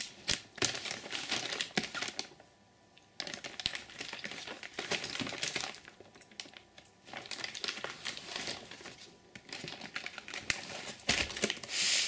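Packaging crinkling and rustling as it is handled, in several bursts with short pauses between them. The loudest burst comes near the end.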